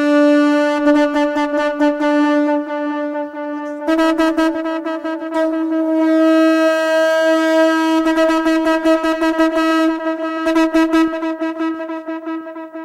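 A long, held horn-like note, buzzy and rich in overtones. It steps up slightly in pitch about four seconds in, has a rapid fluttering rattle at times, and fades away near the end.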